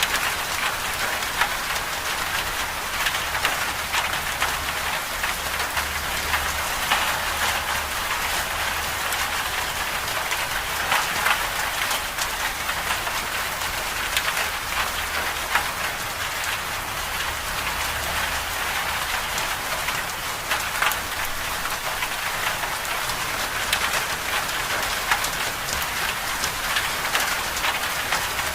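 Steady winter-storm ambience: a dense, even hiss of precipitation striking a surface, dotted with many small ticks, over a low rumble.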